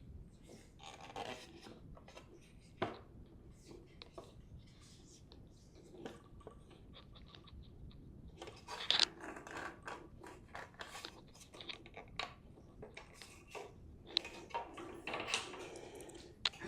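Light handling noises from assembling a smart bike: scattered clicks, scrapes and small knocks of a hand tool and bike parts, busiest about nine seconds in and again near the end.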